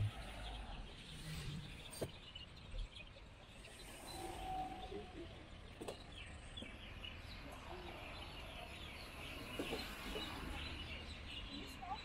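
Many small birds chirping and chattering, most busily in the second half, over a low steady traffic rumble.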